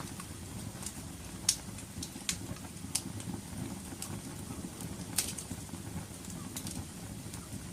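Wood fire burning in a fireplace: a steady low rumble of flame with scattered sharp crackles and pops, the loudest pops about a second and a half in and again about five seconds in.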